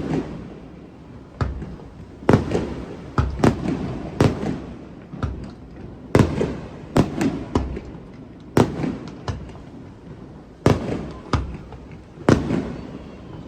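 Aerial fireworks bursting: a string of sharp bangs at irregular intervals, one every second or so, each trailing off in a low rumbling echo.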